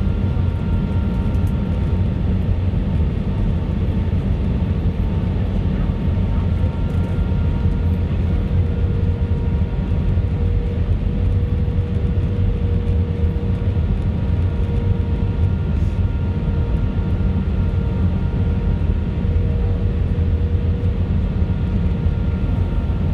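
Steady jet-airliner noise from a British Airways Airbus A319: a constant low rumble with a few faint steady whining tones over it.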